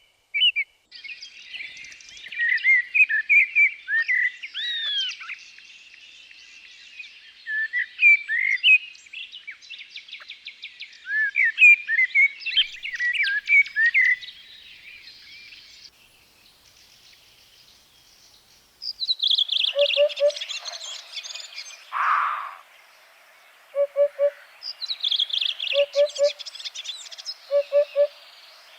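Birds singing and chirping: a dense mix of quick rising and falling notes. In the last third, short low double notes repeat every second or two beneath the chirping.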